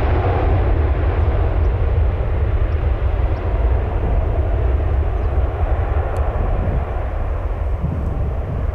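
Jet airliner engines at takeoff power: a loud, heavy rumble with a rushing roar on top, slowly fading.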